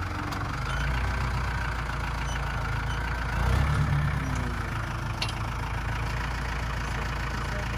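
Tractor engine running steadily, getting briefly louder about halfway through.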